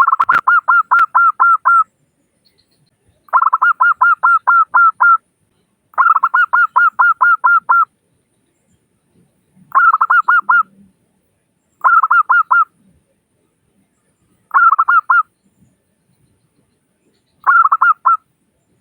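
Zebra dove (perkutut) cooing: seven bursts of rapid staccato coos, about five notes a second, with short silences between. The bursts grow shorter toward the end.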